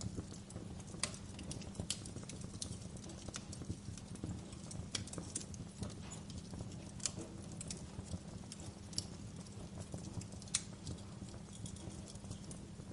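Wood fire crackling in a fireplace: irregular sharp pops and snaps, a few a second, some louder than others, over a steady low rumble of the flames.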